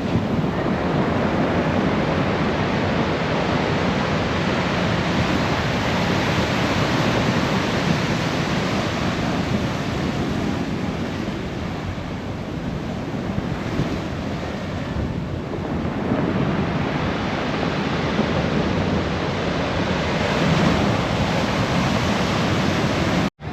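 Rough ocean surf breaking heavily in a continuous wash that surges and eases, with wind buffeting the microphone.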